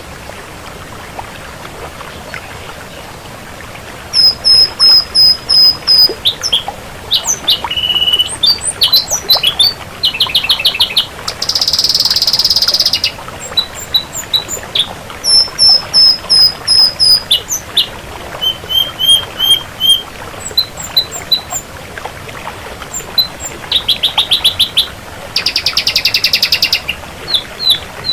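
Ashy drongo singing a varied song of repeated whistled notes, quick trills, sweeps and a few harsh buzzy bursts, starting about four seconds in after a steady hiss.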